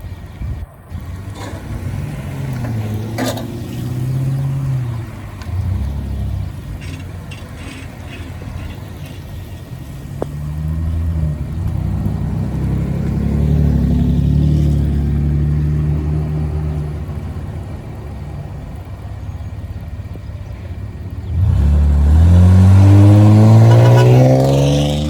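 Custom VIP-style sedans with aftermarket exhausts driving past one after another, their engines rising and falling in pitch as they rev. Near the end one car accelerates hard with a steadily rising engine note, the loudest part.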